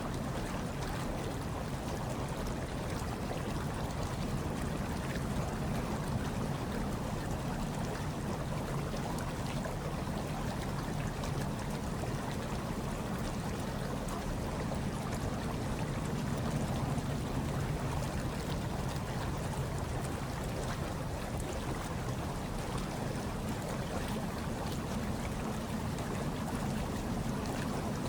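Hot tub water churning and bubbling in a steady, unbroken wash, with a low rumble underneath.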